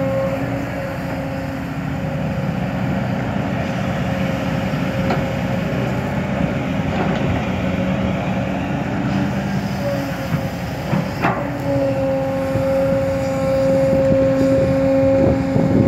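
Kobelco SK200 excavator working, its diesel engine running steadily with a high steady whine that drops away about nine seconds in and comes back near twelve seconds. A single sharp knock about eleven seconds in, and a few clanks near the end.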